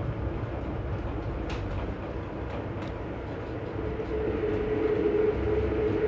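Passenger train running, heard from aboard the car: a steady low rumble with a few faint clicks, joined about four seconds in by a steady whine that grows louder.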